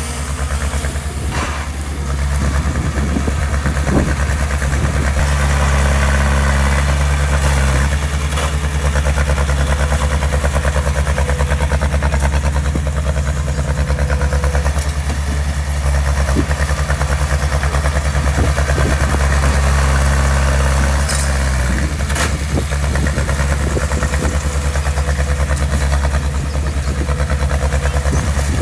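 Heavy construction machine's diesel engine running steadily, with a few short knocks or clanks along the way.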